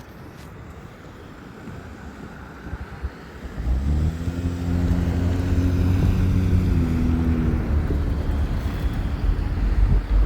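Diesel locomotive engine running with a low, steady drone. It comes in loud about four seconds in and holds.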